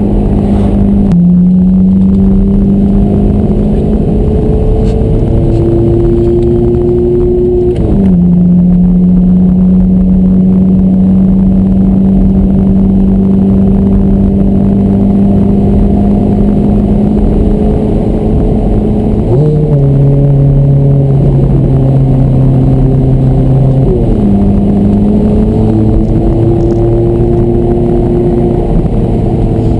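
Ferrari F430's V8 engine heard from inside the cabin while driving, a steady engine note that mostly holds its pitch and jumps abruptly up or down about four times, as at gear changes.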